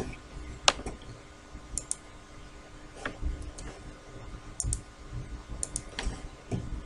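Scattered light clicks of a computer mouse, about ten over several seconds, some in quick pairs, over a faint steady hum.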